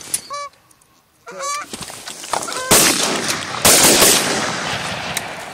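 Geese honking, a few separate calls, then two loud sudden blasts a little past the middle that drown them out.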